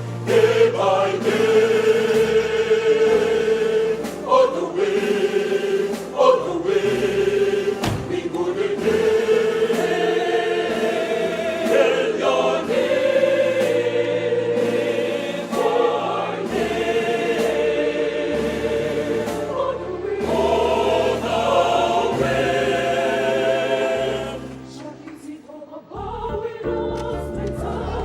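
Choir singing in harmony, holding long notes over a steady bass line. The sound falls away briefly near the end, then comes back.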